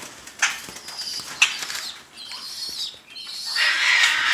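Caged birds screeching: two sharp, short high calls about a second apart, then a longer harsh screech near the end.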